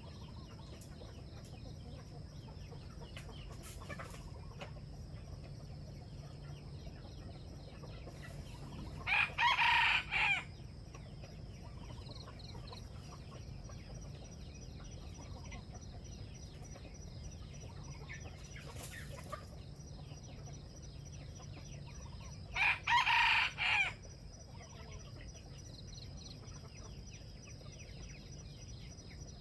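A junglefowl rooster crowing twice, each a short, clipped crow about a second and a half long, the two roughly thirteen seconds apart. Faint bird chirps and a steady high tone run underneath.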